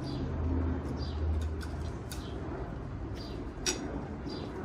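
A small bird calling repeatedly in the background: short, high chirps that fall in pitch, about one a second. Near the middle and again near the end there are sharp clicks, as chopsticks are knocked and set down against a plate.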